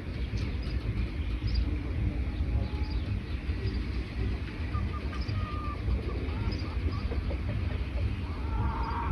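Wild birds chirping, with short high calls scattered throughout, a few lower notes about five seconds in and a burst of calls near the end, over a steady low rumble.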